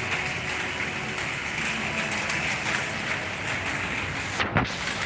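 Heavy rain falling hard in strong wind, a steady dense hiss. A brief muffled thump about four and a half seconds in.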